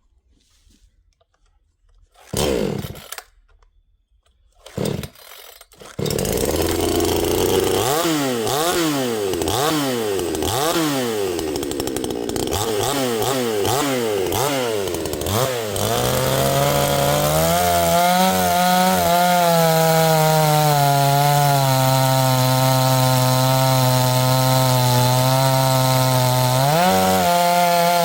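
Dereal 62cc two-stroke chainsaw being pull-started: two short pulls, and it catches about six seconds in. It then runs with the throttle blipped up and down about once a second, then settles at a steady pitch.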